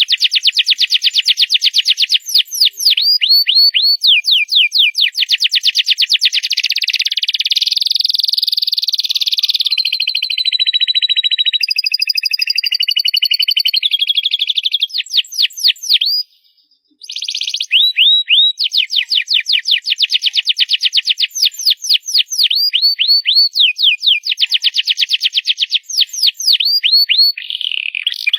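Canary singing loudly: long, fast rolls of rapidly repeated high notes and trills, changing from one run to the next, with a brief break a little past halfway.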